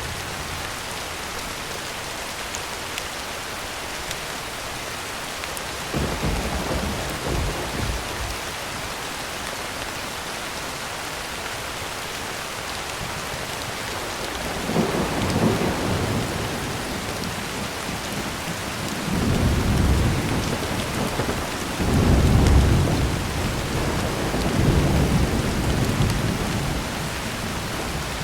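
Heavy rain drumming on a tin roof as a steady hiss, with low rolls of thunder swelling in about six seconds in and several more times in the second half, the loudest near the end.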